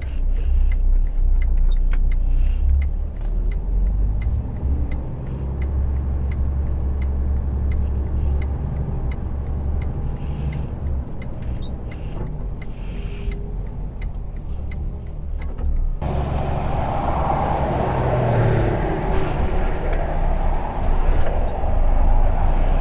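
Truck's diesel engine running at low speed, heard from inside the cab, with a light regular ticking about twice a second. About two-thirds of the way through, louder rushing noise comes in suddenly on top of the engine and continues.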